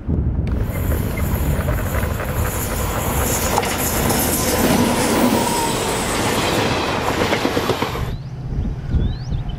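A train passing, its wheels rattling on the track, heard as a loud, dense rush. It comes in suddenly about half a second in and cuts off abruptly near the end, leaving a low rumble.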